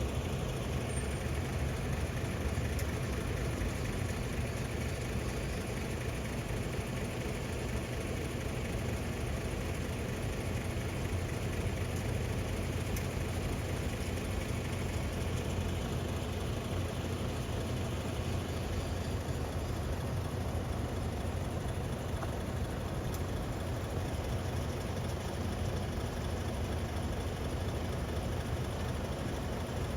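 A heavy truck's engine idling steadily: an even, low rumble that does not change.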